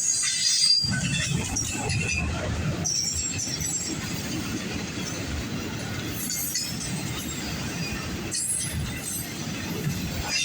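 Freight train rolling past: a steady rumble of wheels on rail, with high-pitched wheel squeal coming and going.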